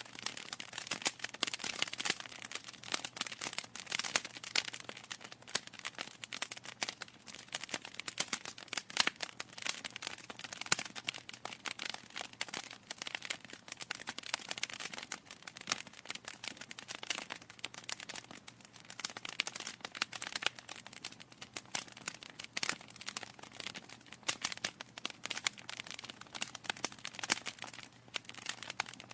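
Wood fire burning in a fireplace, the logs crackling and popping in a dense, irregular stream of sharp snaps over a soft hiss.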